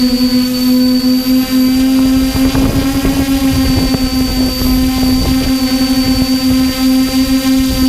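XJ470 multirotor drone's electric motors and propellers hovering with a steady, loud buzz. Gusts of wind rumble on the microphone, strongest from about two and a half to five and a half seconds in.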